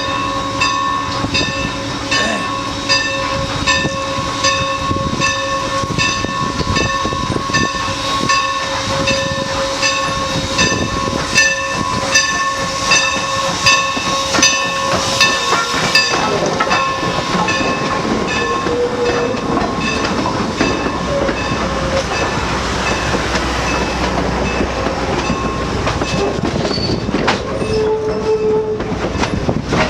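Train running, with a regular ringing strike about twice a second and a held tone over the first half; after that a steady rumble of the train.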